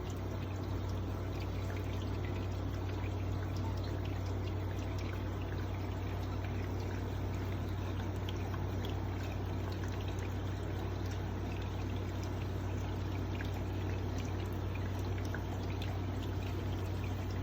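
Small bubbling bird bath fountain, its water trickling and pouring without a break over a steady low pump hum.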